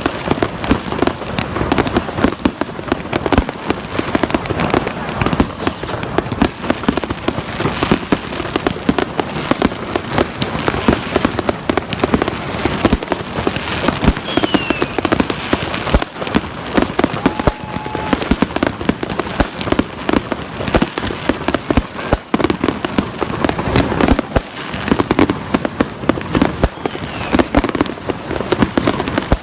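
Fireworks going off in a dense, continuous barrage of bangs and crackles, with a short falling whistle about halfway through.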